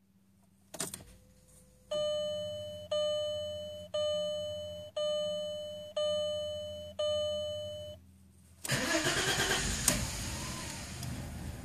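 A car's dashboard warning chime rings six times, one a second, then the 2000 VW Passat 4Motion V6 is cranked by the starter and tries to fire. This is a hard cold start on an engine that has been logging misfires on cylinders 3, 4 and 6.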